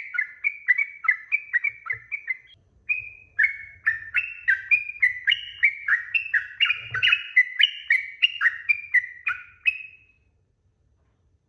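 Yellow-vented bulbul (trucuk) singing a long, fast run of bubbly chirping notes, about five a second, with a brief break a couple of seconds in and the song stopping near the end.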